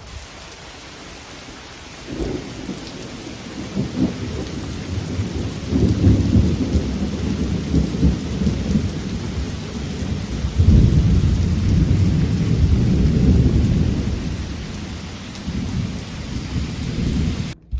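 Thunder rolling over steady rain: a long low rumble starts about two seconds in, swells in waves and eases off, over the constant hiss of rain, then cuts off suddenly near the end.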